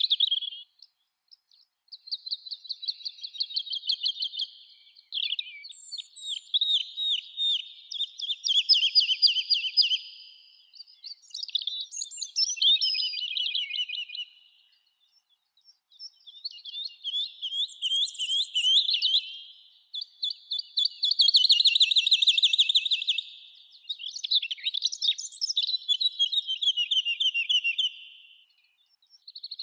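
Songbirds singing in a forest: a run of fast, high trilled song phrases, each two to three seconds long, with short pauses between them.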